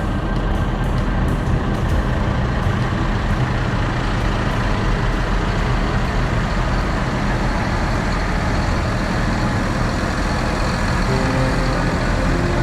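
Tractor engine running steadily under way, with a constant low throb and no change in pace.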